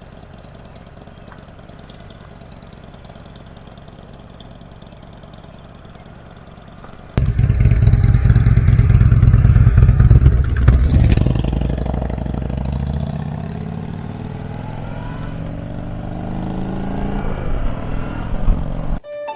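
Honda CB500X parallel-twin motorcycle engine running steadily and quietly. About seven seconds in, it abruptly becomes much louder, with a rushing noise over it. In the second half the engine pitch rises steadily as the bike accelerates.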